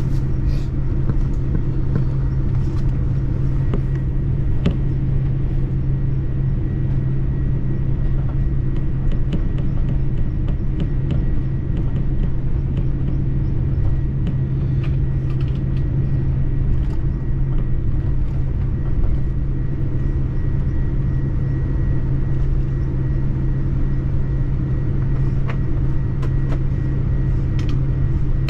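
Steady low vehicle rumble heard from inside the vehicle, with a constant low hum and a few faint ticks scattered through.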